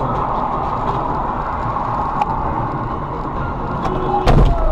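Vehicle driving, with steady engine and road noise, and a loud thump near the end.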